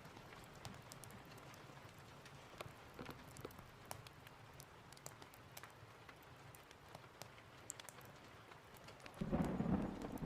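Steady rain with scattered sharp ticks, then a rumble of thunder breaks in suddenly about nine seconds in and is the loudest sound.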